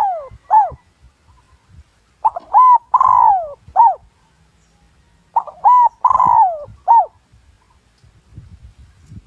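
Decoy spotted dove cooing its rhythmic lure call, a phrase of short coos with one long falling note, repeated about every three seconds. It is the call used to provoke wild male spotted doves into answering and coming in to fight.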